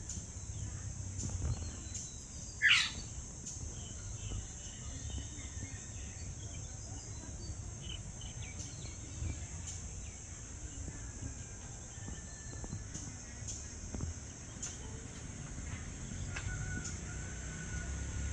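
Evening outdoor ambience: a steady, high-pitched insect chorus with scattered short bird chirps. The loudest sound is one quick sweeping bird call about two and a half seconds in, over a low background rumble.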